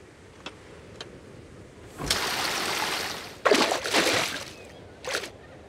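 Cartoon water sound effects: a second-long rush of splashing water about two seconds in, followed by shorter watery sloshes and a brief splash near the end, as the fish is let out of its tank into the sea.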